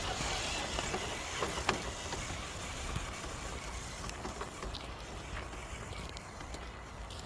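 Steady hiss of road traffic from a nearby highway, thinning out toward the end, with a few light clicks of footsteps on the trail.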